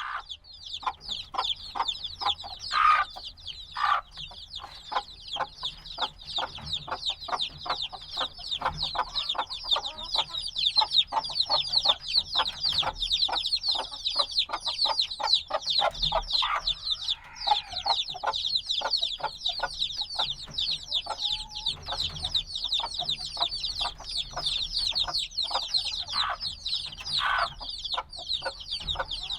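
A brood of chicks a few days old chirping without a break: many short, high peeps overlapping, several a second. A few louder, lower calls stand out now and then.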